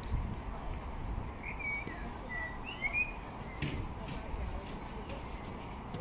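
A few short, high bird chirps near the middle, over a steady low background rumble, with one brief knock a little past halfway.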